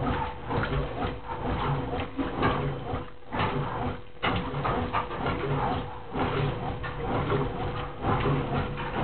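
Brastemp Clean 10 kg washing machine agitating during the rinse: water sloshing and churning in uneven pulses, with a couple of brief pauses about three and four seconds in.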